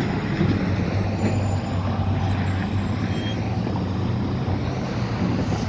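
Street traffic: a motor vehicle's engine running steadily with a low hum, heard over road noise.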